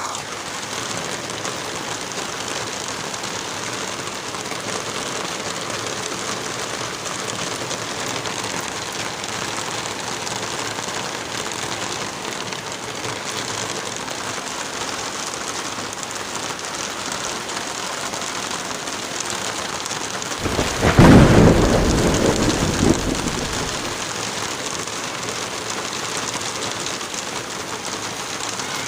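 Light rain and wind through forest trees, a steady even hiss. About twenty seconds in, a loud low rumble swells and dies away over some three seconds.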